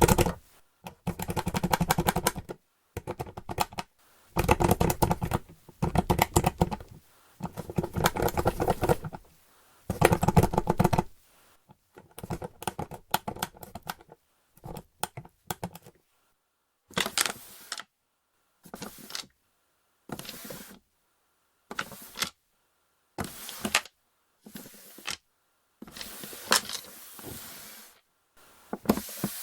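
Wooden board game box shaken in repeated bursts, its plastic game pieces rattling inside. About halfway through, the bursts turn shorter and lighter, with more of a sliding hiss.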